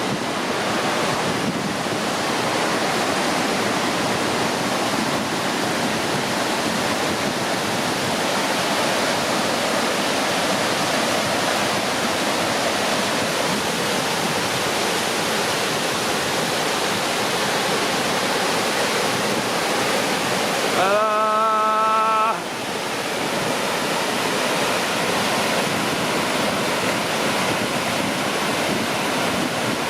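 DeSoto Falls, a 110-foot waterfall, rushing with a steady, thunderous noise of falling water. About two-thirds of the way through, a short pitched tone with several overtones sounds over it for just over a second.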